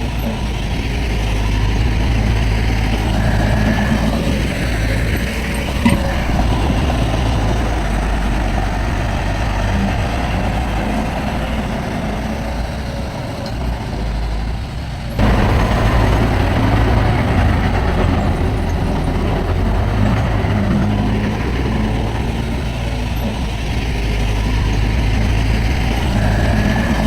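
Heavy diesel earthmoving machinery running steadily with a low rumble; about fifteen seconds in the sound dips briefly, then comes back suddenly louder.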